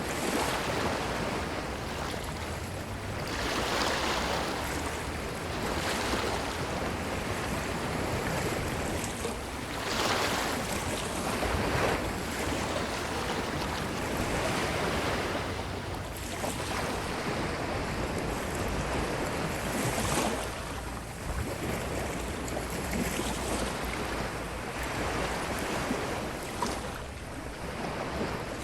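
Ocean waves breaking and washing over a beach, the surf swelling and falling back every few seconds.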